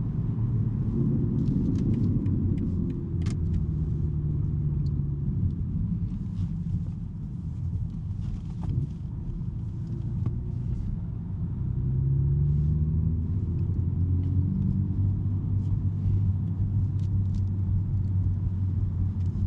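BMW M3 G80's twin-turbo inline-six with a non-resonated J-pipe exhaust, driving in town with a steady low drone. Its pitch rises briefly a couple of times as it pulls. It eases off in the middle and picks up again about twelve seconds in.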